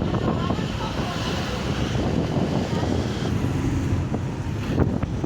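Taxi driving along, with wind rushing over the microphone over a steady rumble of engine and tyres.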